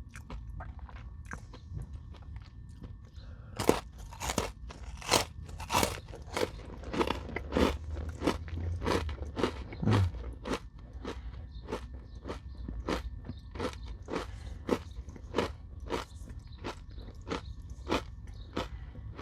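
Close-up chewing of a crunchy Nature Valley oats and honey granola bar dipped in yogurt, with a steady run of crisp crunches about one to two a second. The crunches are loudest in the middle stretch.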